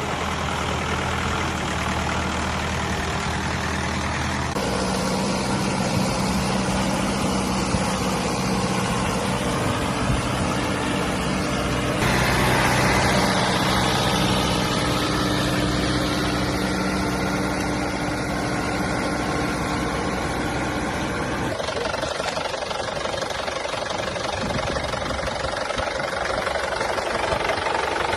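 Tractor engine running steadily. Its pitch and tone shift abruptly a few times, about 4, 12 and 21 seconds in.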